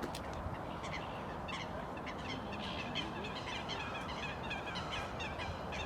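Birds chirping: many short, quick chirps repeating over a steady low background noise.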